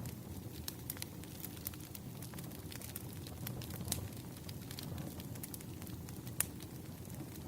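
Wood fire burning: a steady low rumble with frequent sharp crackles and pops. There is a louder pop about four seconds in and the loudest near the end.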